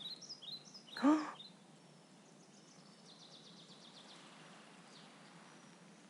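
Forest ambience: small birds chirping, with a fast trill of high chirps around three seconds in, over a faint steady hiss. About a second in comes one short, louder voiced sound rising in pitch.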